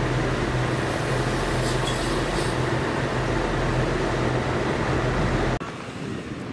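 Electric train at a station, giving a steady rushing noise over a constant low hum. It cuts off abruptly about five and a half seconds in, leaving a quieter open-air background.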